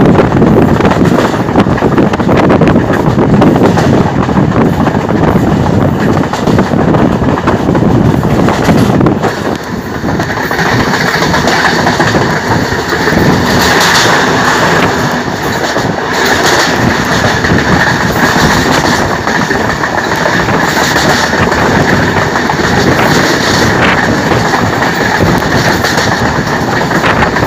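Yarl Devi passenger train carriage running along the line, a loud, continuous rumble with its wheels clattering on the rails. About ten seconds in, the sound dips briefly and a steady high ring joins it, which lasts to the end.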